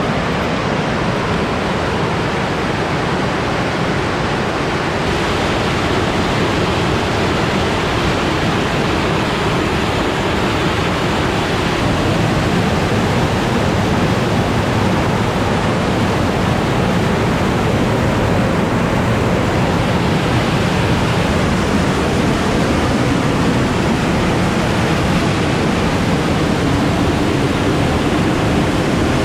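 Waterfall crashing into its plunge pool close by: a loud, steady rush of heavy falling water, strong enough to shake the ground.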